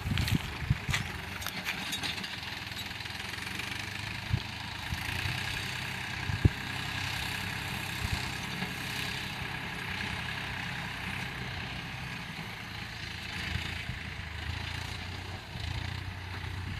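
New Holland 49 hp, 2700 cc tractor engine running steadily, with a few sharp clicks near the start and a single sharp knock about six seconds in.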